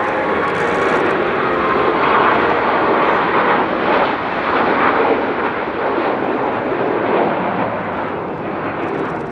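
Jet aircraft flying past, a loud steady engine roar that swells and eases, then fades near the end.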